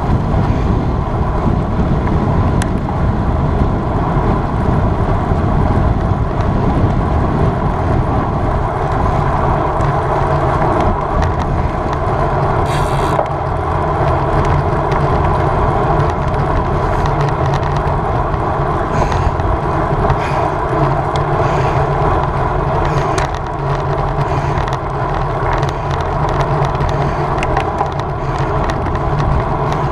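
Road bicycle ridden at race speed: steady wind rush on the rider's camera microphone with tyres rolling on the road, and a few brief ticks and crackles.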